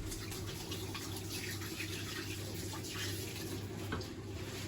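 Kitchen tap running into a sink while hands are washed under the stream.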